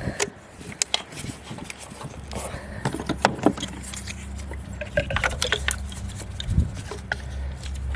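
Irregular plastic-and-metal clicks and knocks of ignition coil packs being pulled, swapped and their connectors plugged back in on a BMW E90 inline-six, under a low steady hum that starts about two seconds in.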